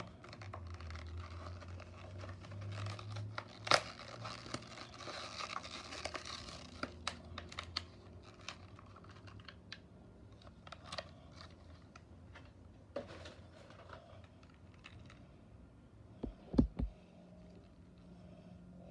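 Blister packaging of a die-cast toy car being opened by hand: plastic and card crinkling and tearing with scattered clicks and snaps, one sharper snap about four seconds in. A few low knocks near the end.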